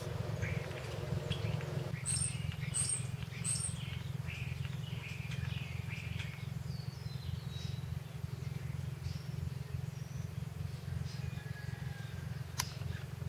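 Small birds chirping and calling, with three quick high chirps about two seconds in, over a steady low hum. A single sharp click near the end.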